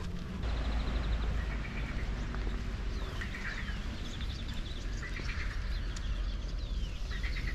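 Small songbirds singing, with rapid high trills and short falling whistles, over a steady low rumble.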